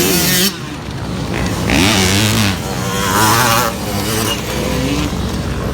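Motocross dirt bike engines revving and changing pitch as they race on the track, with a few louder rushes of hiss over them.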